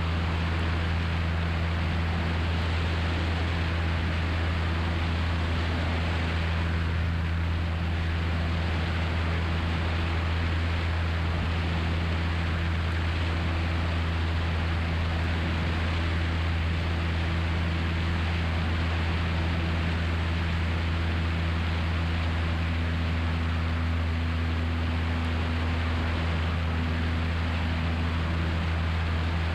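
Steady drone of a Cessna 172's piston engine and propeller heard in the cockpit in flight, a constant low hum with an even hiss over it.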